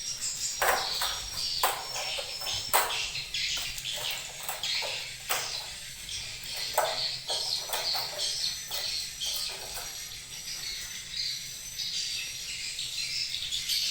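Many edible-nest swiftlets chirping and twittering continuously in a high, dense chorus, with sharp clicks and knocks scattered through it.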